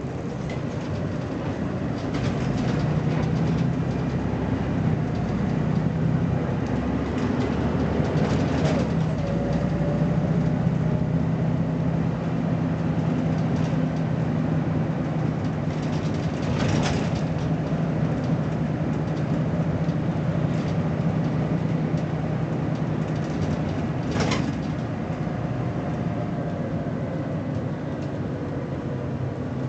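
BMC Belde 220-SLF city bus engine running under way, a steady drone that grows louder about two seconds in and eases off near the end, with a faint whine above it. Three short sharp rattles or squeaks cut through, about 8, 17 and 24 seconds in.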